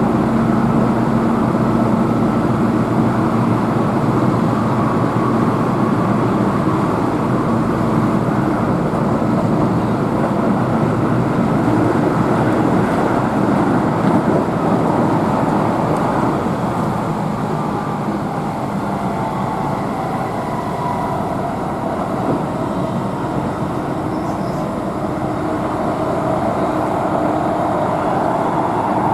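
Keihan Main Line electric train running at speed, heard from inside the car: a steady rumble of wheels on rail with a humming tone that drifts in pitch.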